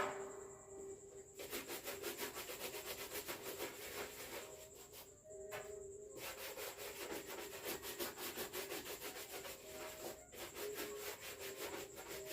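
Leather school shoes being polished with Kiwi shoe polish: quick back-and-forth rubbing strokes, in three bursts separated by short pauses.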